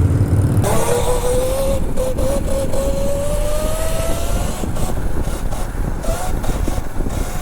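Dirt bike engine pulling under throttle, its note climbing steadily for several seconds as the bike accelerates, then rising again briefly near the end.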